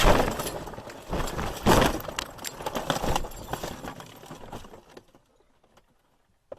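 Car collision: a loud crash at the start, more crunching and clattering impacts a second or two in, then fading away into silence.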